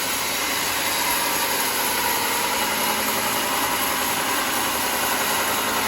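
Sawmill machinery running steadily, a constant mechanical noise with a faint hum and no separate knocks or cuts standing out.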